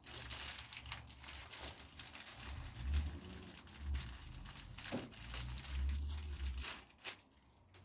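Plastic packaging crinkling and rustling as it is handled, with a few light knocks, as a new motorcycle fork dust seal is unwrapped.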